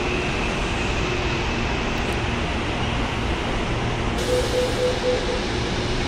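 CPTM suburban electric train pulling into the platform and coming to a stop, its running noise steady with a high whine that fades away over the first few seconds. About four seconds in comes a hiss of air, then about four short beeps.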